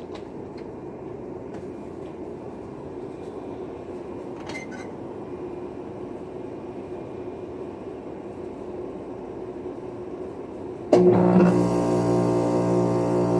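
Steady hum of running air conditioning. About eleven seconds in, a Ruud 3-ton Platform Series outdoor condensing unit starts with a sudden jump in loudness, its compressor settling into a loud, steady, buzzing hum.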